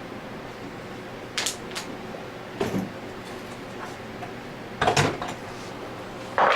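Tools and metal parts clinking and knocking on a bench while the needle bearings are removed from an Anest Iwata scroll compressor: a few separate knocks, the loudest about five seconds in, and a longer clatter near the end.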